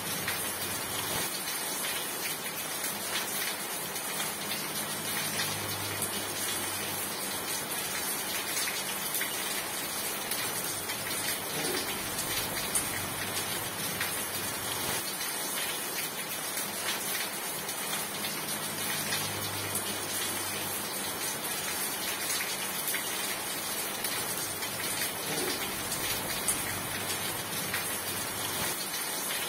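Steady rain falling, a dense even hiss with scattered drop ticks. A faint low hum comes and goes underneath a few times.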